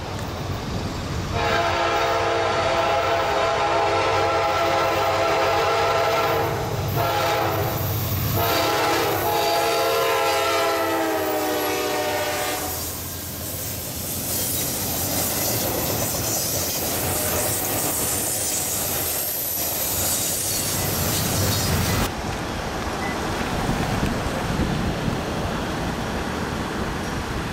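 Freight locomotive's air horn sounding in several blasts, the last one long, its chord dropping in pitch as the locomotive passes close by. Then double-stack intermodal cars rattle and clatter past on the rails. Near the end a more distant train rumbles on its approach.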